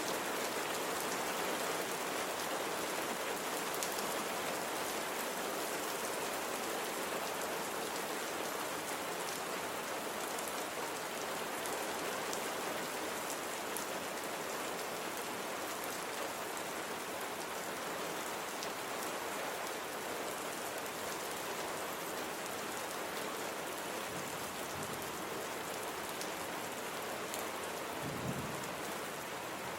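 Steady rain falling, an even dense hiss of drops, with a brief low rumble near the end.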